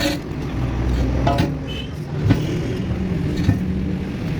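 A motor running steadily with a low hum, with a few sharp knocks over it.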